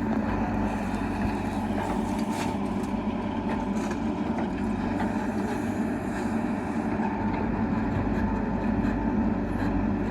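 Heavy diesel engine running steadily with a low hum and light rattles, from a backhoe loader or a tractor working on earth loading.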